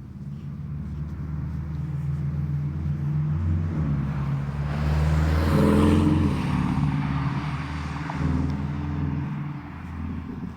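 A motor vehicle passing close by: a steady low engine hum, with engine and tyre noise swelling to a peak just past halfway and then fading.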